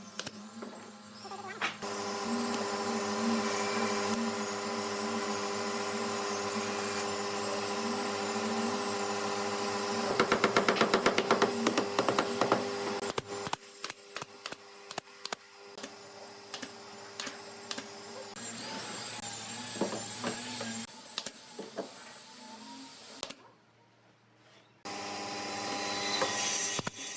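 Electric power tool motor running with a steady whine, and a stretch of rapid ticking in the middle. It stops briefly near the end and then starts again.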